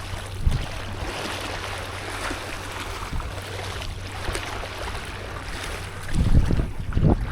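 Sea water washing and splashing around a stand-up paddleboard in soft, uneven swells, with wind buffeting the microphone, heavier near the end.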